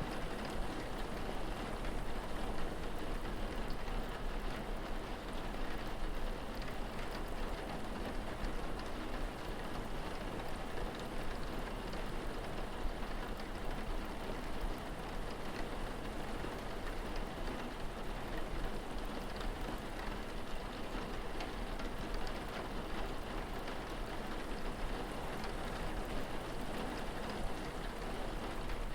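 Steady rain with a constant patter of drops, over a low, even rumble.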